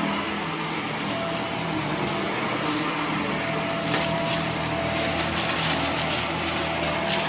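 Vacuum cleaner running steadily, its motor humming under the rush of suction. Debris from a mess test is being sucked up, with sharp ticks and rattles that come more often from about four seconds in.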